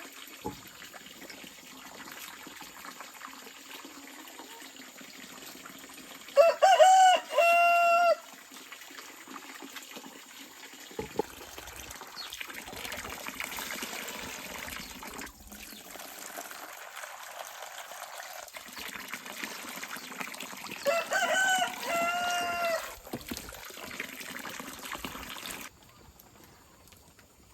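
A rooster crows twice, once about six seconds in and again about twenty-one seconds in, each crow about two seconds long and the loudest sound present, over a steady background hiss.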